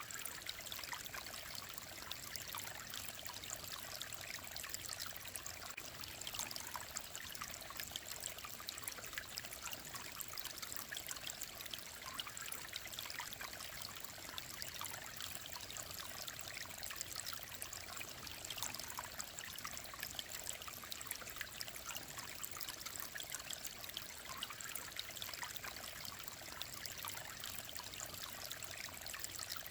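Mountain stream flowing, a steady, unbroken rushing and trickling of water with fine splashing throughout.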